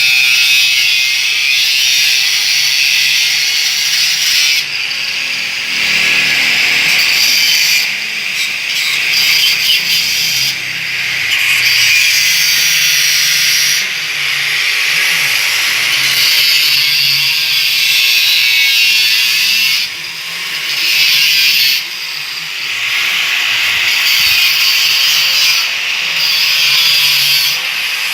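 Power tool cutting into car-body sheet metal in passes of a few seconds each, with short pauses between them.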